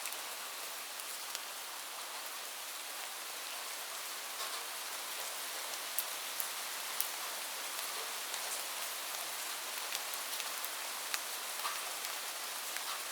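Steady rainfall, an even hiss with scattered louder drops ticking sharply now and then.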